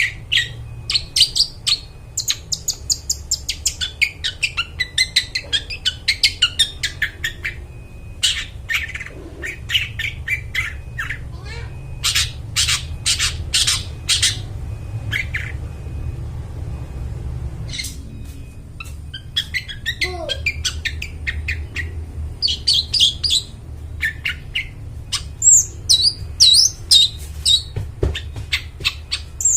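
Long-tailed shrike singing a long, varied song of rapid harsh chattering notes, squawks and high whistles, with a quieter spell partway through. A steady low hum runs beneath.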